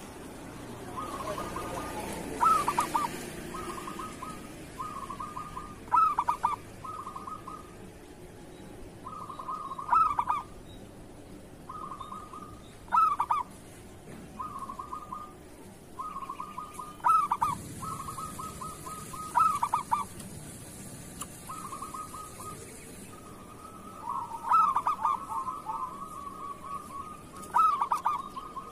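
Zebra dove (perkutut) singing: its cooing comes in quick stuttering phrases. A loud phrase comes every three to four seconds, with softer rolling coos in between.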